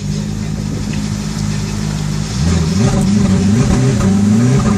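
Supercar engine idling steadily, then revved in a run of quick throttle blips from about halfway through, the pitch rising and falling several times and louder than the idle.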